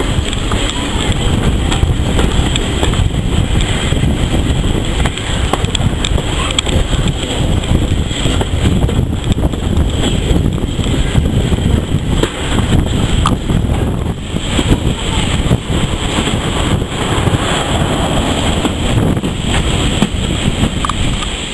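Wind buffeting the microphone held out of a moving train's carriage window, over the steady low rumble of the carriage running on the rails.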